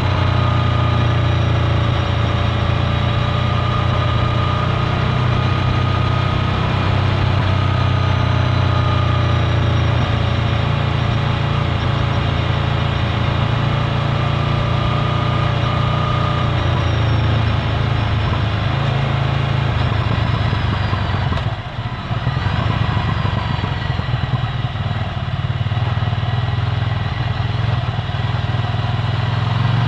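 Ducati Scrambler Full Throttle's air-cooled 803 cc L-twin through a Termignoni exhaust, running at low, fairly steady revs. The sound briefly drops off about two-thirds of the way in, then picks up again.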